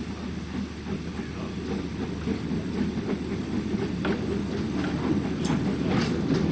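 Narrow-gauge train running on the rails, a steady rumble growing slowly louder as it draws nearer, with a few sharp clicks from the wheels and track in the second half.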